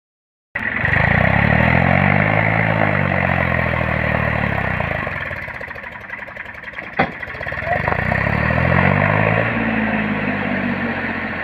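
Tractor engine running under load, its speed rising and falling twice in long swells, with one sharp click in the lull between them.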